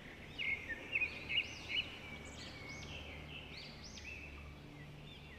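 Small birds chirping: many short chirps that rise and fall, overlapping, loudest in the first two seconds, over a faint low steady hum.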